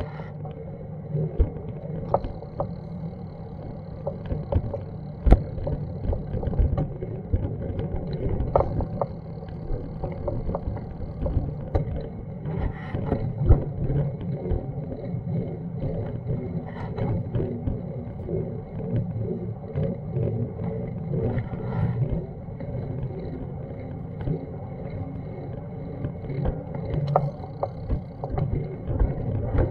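Muffled street ambience: a steady low rumble with scattered irregular knocks and clicks.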